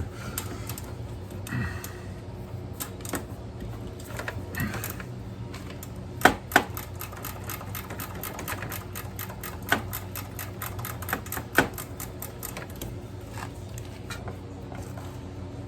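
Ratcheting 10 mm wrench clicking in quick runs as bolts are worked loose, with a few louder metal clinks.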